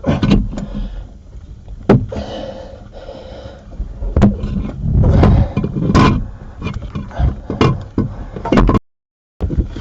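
Handling noise from a camera being picked up and set back in place: irregular rubbing and scraping against the microphone, with several sharp knocks and thumps.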